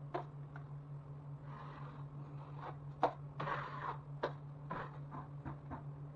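A string of short scrapes and knocks, the loudest about three seconds in, followed by a second of scraping, over a steady low hum.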